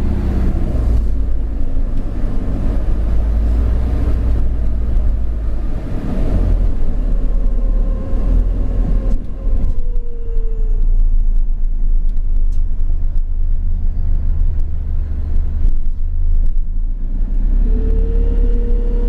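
Enviro400 hybrid bus with a BAE Systems hybrid drive: a steady low rumble throughout, with the electric drive's whine falling in pitch about nine to eleven seconds in as the bus slows, then rising again near the end as it pulls away.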